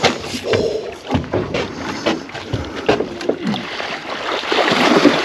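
Water and boat noise on a small fishing boat: repeated knocks and clatter against the hull, with a rushing, splashing noise swelling near the end.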